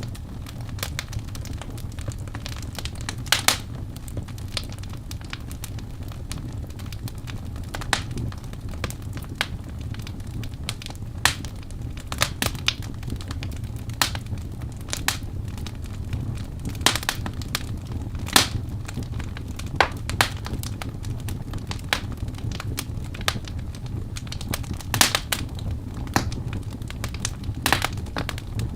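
Wood fire burning in a fireplace: a steady low rumble of flames with irregular sharp crackles and pops from the burning logs, several a second, now and then a louder snap.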